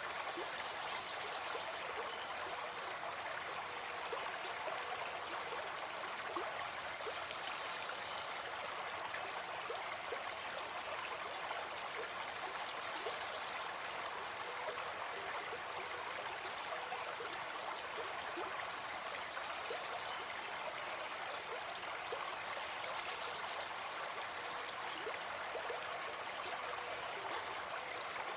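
Gentle forest stream flowing: a steady, even rush and babble of running water.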